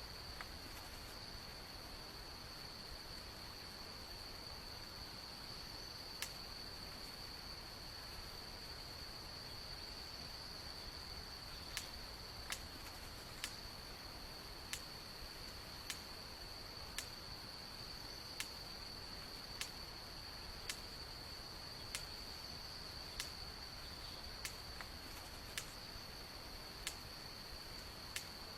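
Steady, unbroken high-pitched insect trill, like crickets calling. About halfway through, short sharp ticks begin, about one a second.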